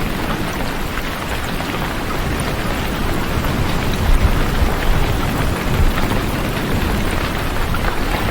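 Steady rain falling, an even hiss with a deep low rumble underneath.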